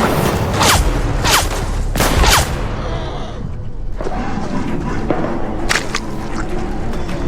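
Battle gunfire sound effects: four sharp shots in the first two and a half seconds, then a quieter stretch under music with a couple more shots around six seconds in.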